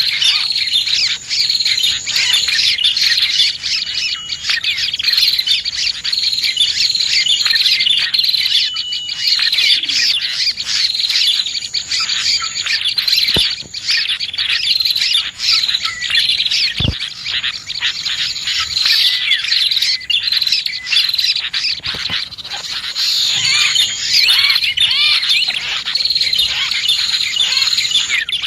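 A bird-lure recording of prinias (prenjak) and other small birds chirping: many high-pitched calls overlap in rapid, continuous twittering, with a few thin held whistles. Two brief low thumps come about halfway through.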